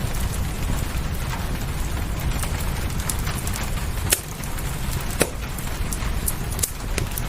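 Steady rain hiss over a low rumble, with the sharp pops and crackles of a wood fire burning in a fireplace; the loudest pops come about four and five seconds in.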